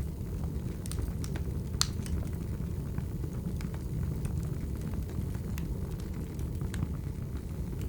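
Wood fire crackling: a steady low rumble of the burning logs with scattered sharp pops and snaps, the loudest about two seconds in.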